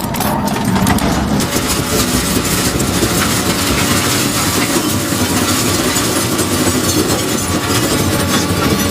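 A crushing machine running steadily, its motor and working parts making a loud, even, continuous noise.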